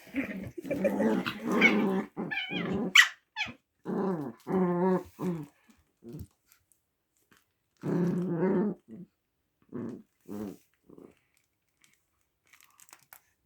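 Small dogs growling in play while tugging at a toy, in several bouts of a second or two that thin out after about eleven seconds.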